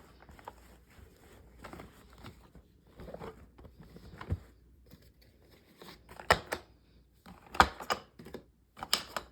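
Irregular clicks, knocks and rustles from a vacuum cleaner being handled and cleaned by hand, with no motor running. Several sharper clicks come in the second half.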